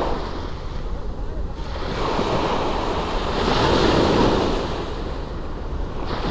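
Sea waves washing up on the shore, swelling to a peak about four seconds in and then easing off, with wind rumbling on the microphone.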